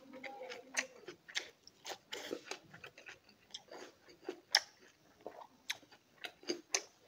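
Close-up eating sounds: chewing and crunching on small whole stone fish with rice and curry, with irregular sharp wet smacks and clicks.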